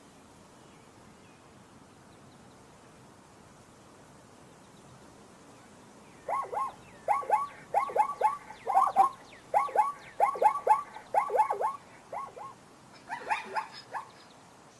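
Zebra calling: a rapid series of short, barking yelps in clusters, starting about six seconds in and stopping shortly before the end, over a faint steady background.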